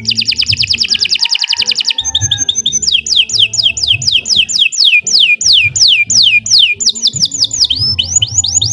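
Domestic canary singing a long, continuous song: first a fast rolling trill of rapid rising notes. About three seconds in it changes to a run of downward-sweeping whistles repeated roughly three or four times a second, which then speed up into fast trills again near the end.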